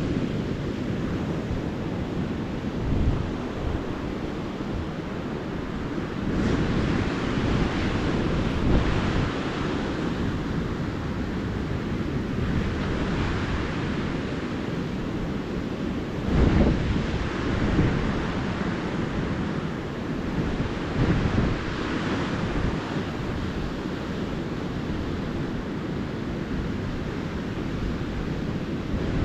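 Ocean surf washing onto the beach, a continuous low rush, with wind buffeting the microphone in a few short gusts.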